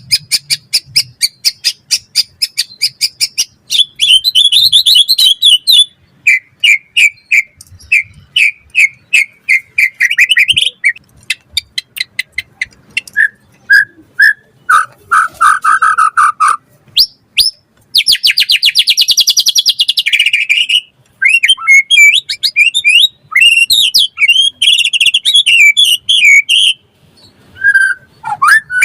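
White-rumped shama (murai batu) singing a fast, varied song: rapid runs of short repeated notes, trills and sweeping whistled phrases, one after another with hardly a pause. This is the energetic full song that keepers play to spur other shamas into singing.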